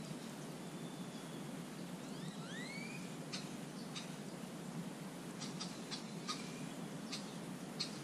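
Birds calling: a few short rising whistled notes about two to three seconds in, then a scatter of sharp short ticks, over a steady low background rumble.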